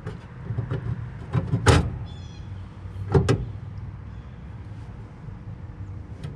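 Metal knocks and rattles from hand work on a gas pack's inducer motor assembly, the loudest about two seconds in, with a brief squeak just after it. A steady low hum runs underneath.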